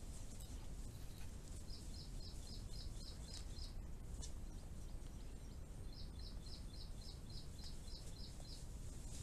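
A bird calling in two runs of short, evenly spaced high notes, about four a second, over a steady low background hiss.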